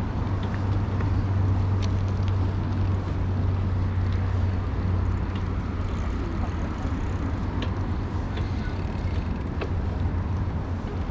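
Steady low rumble of wind on the microphone and riding noise from a bicycle moving along a paved path, with a few faint ticks.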